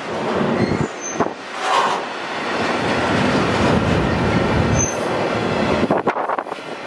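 Intermodal freight train's trailer-carrying flatcars rolling past close by: a steady rumble and rattle of steel wheels on rail. Two brief high wheel squeals come about a second in and again near five seconds, and a few sharp clacks follow near the end.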